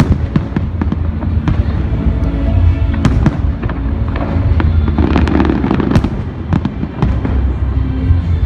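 Fireworks going off in rapid succession: many sharp bangs and crackles, with a denser volley about five seconds in. Music with sustained low notes plays underneath.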